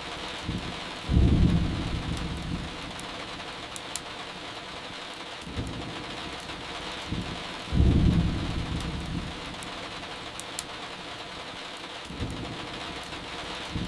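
Steady rain with a low thunder rumble swelling up twice, about a second in and again just past the middle, each fading over a couple of seconds. Faint crackles of burning firewood pop now and then over the rain.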